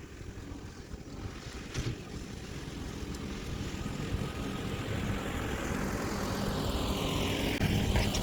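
Kioti DK4710SE tractor's diesel engine running steadily under load while pulling a landscape rake, growing louder as the tractor comes closer and passes near the end.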